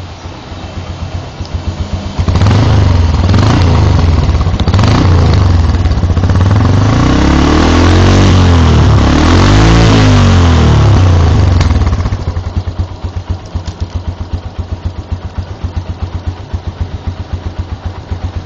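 Yamaha Byson's air-cooled single-cylinder engine through a NOB1 Neo Silent Sport aftermarket muffler: idling with an even putter, then revved up and down repeatedly from about two seconds in, and settling back to idle about twelve seconds in.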